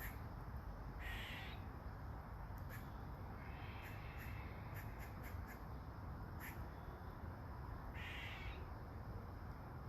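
A crow cawing: two short caws, about a second in and again near the end, with a fainter call between them. Under them runs a steady low rumble, with a few sharp ticks.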